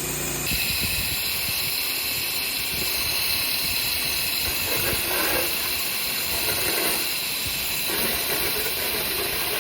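Pressure-washer water spray hissing steadily, starting about half a second in.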